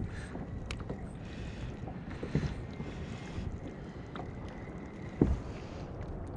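Steady wind and water noise on a kayak, with a few light knocks, the loudest about five seconds in.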